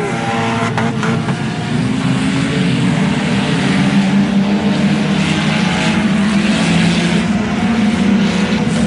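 Several sport compact race cars' four-cylinder engines running hard together at speed, a steady multi-engine drone whose pitch steps up about two seconds in as the cars accelerate.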